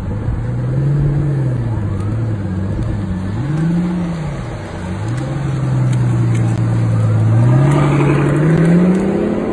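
Pagani Huayra's twin-turbo V12 engine pulling away: the engine note rises and falls twice, holds steady, then climbs near the end.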